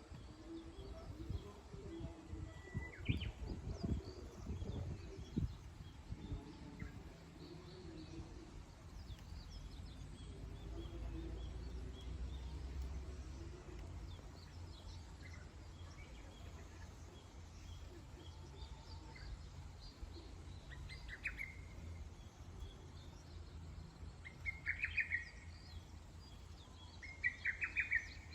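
Wild birds chirping, with scattered short calls and a run of louder, rapid chirps near the end. Underneath is a low rumbling background noise, heavier in the first few seconds.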